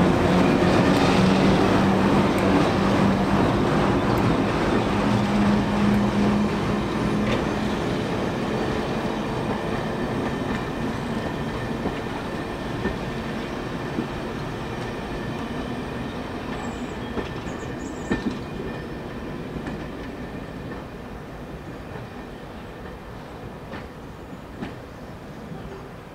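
Class 08 diesel shunter hauling a rake of coaches away, its steady engine tone heard for the first few seconds, then the coaches' wheels rumbling and clicking over the rail joints as the sound fades steadily into the distance.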